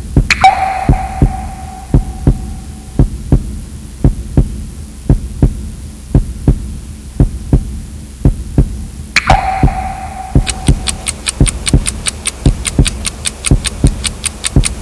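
Film soundtrack sound design: a low heartbeat-like thump repeating about three times a second. Twice, near the start and about nine seconds in, a sharp hit leaves a ringing tone for a couple of seconds. From about ten seconds in, fast high ticking runs alongside at about four ticks a second.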